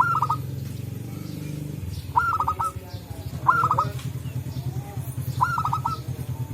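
Zebra dove (perkutut) calling four times, each call a quick run of three or four short staccato notes, over a low steady hum.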